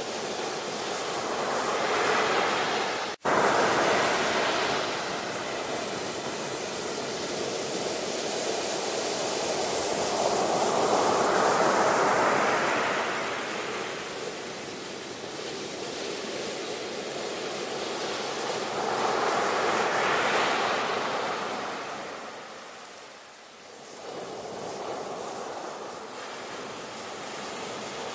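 Ocean surf: waves breaking and washing in, the rush swelling and fading every several seconds. A brief dropout cuts the sound about three seconds in.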